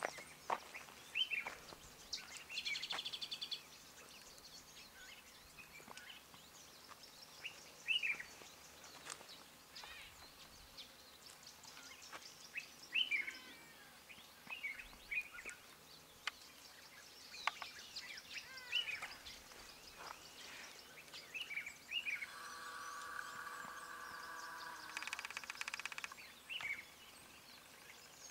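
Wild birds calling: many short, sharp chirps and down-slurred whistled notes at irregular intervals, with a longer steady droning call near the end.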